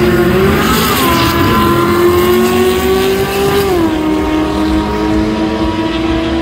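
A drag car's engine running hard at high revs, its pitch holding nearly steady and dropping sharply twice, about a second in and again near the four-second mark, as it shifts gears.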